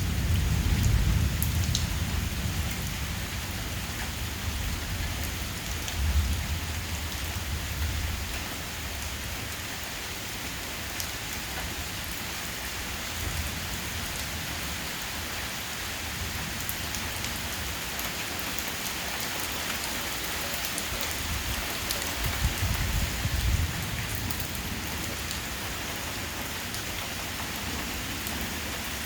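Heavy rain pouring steadily during a severe thunderstorm. Thunder rumbles low at the start and fades over the first several seconds, and rumbles again briefly about three quarters of the way through.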